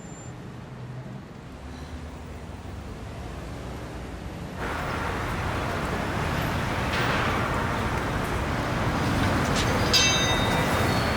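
Street traffic noise: a steady low rumble that gets suddenly louder and fuller about halfway through. A brief high-pitched squeal comes near the end.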